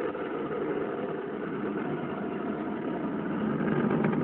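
Delta II Heavy rocket in powered ascent: steady, dense noise from its main engine and six ground-lit solid rocket motors, growing slightly louder near the end.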